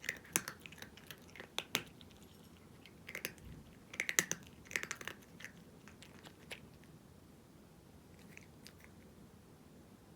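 A cat crunching dry kibble, in bursts of sharp crunches through the first six seconds or so, then only a few faint ticks.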